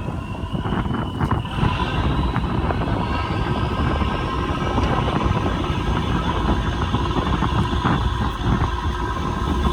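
Fishing boat's engine running, its whine slowly rising in pitch over the first few seconds, with strong wind buffeting the microphone.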